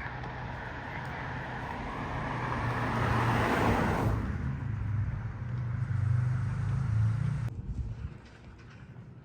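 A car passing close by on a residential street: a low engine hum under tyre and road noise that swells to its loudest about three to four seconds in and then eases. The sound cuts off abruptly about seven and a half seconds in.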